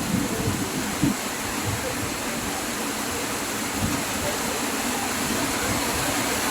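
Heavy summer-storm rain falling steadily, a dense even hiss, with a few brief low rumbles in the first four seconds.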